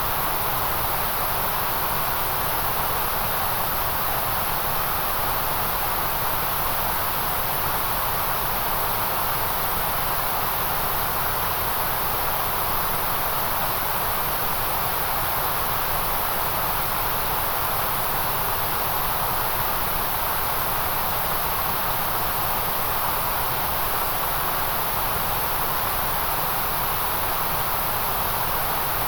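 Steady white noise: an even, unchanging hiss with no rhythm, tones or breaks.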